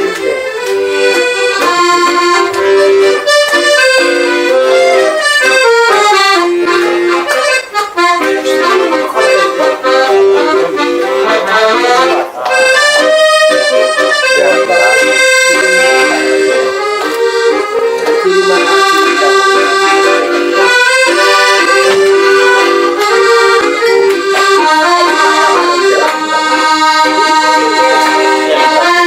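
Accordion playing a melody over sustained chords, the notes changing step by step, with a short break in the sound about twelve seconds in.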